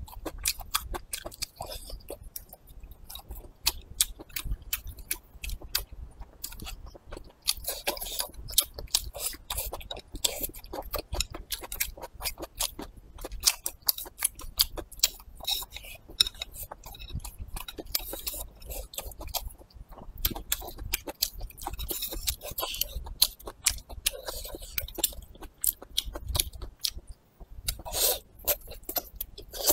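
Close-miked chewing of braised pork intestine and braised meat with rice: many quick, wet mouth clicks and smacks throughout, with a larger bite near the end.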